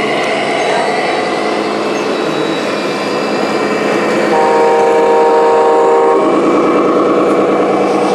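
A multi-tone truck air horn sounds one steady blast of about two seconds, midway through, over a continuous busy background noise.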